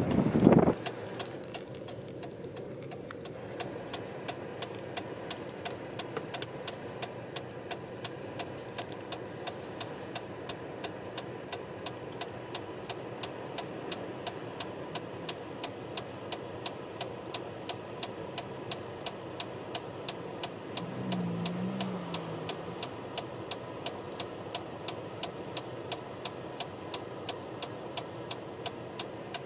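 Car engine idling with regular sharp ticks, about two or three a second. There is a loud gust-like burst right at the start and a brief low sound about two-thirds of the way through.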